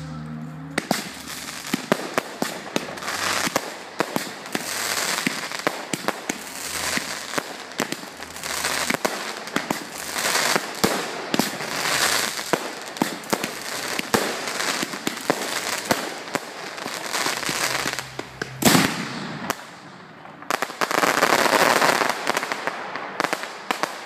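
Fireworks display: a rapid barrage of sharp shell bursts and cracks over waves of crackling and hiss. One especially loud bang comes about three-quarters of the way through, followed near the end by a loud, dense crackling swell as a shower of gold sparks falls.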